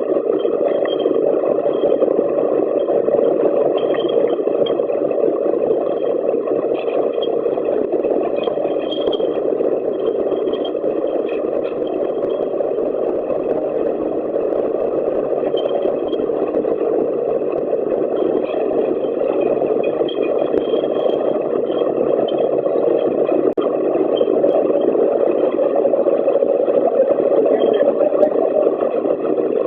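YX-16 ultrasonic bottle washing machine running, a steady mechanical noise with small clicks scattered through it.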